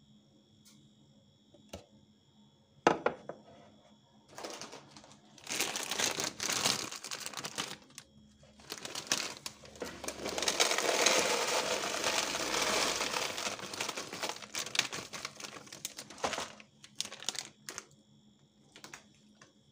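Plastic packaging crinkling and rustling as it is handled, with a sharp knock about three seconds in and a long stretch of continuous rustling in the middle.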